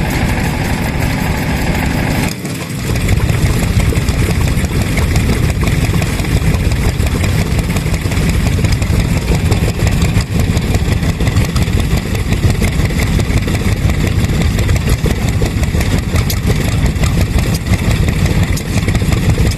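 Stationary engines running steadily with rapid, even firing. About two seconds in, the sound switches abruptly to a louder, lower engine running on.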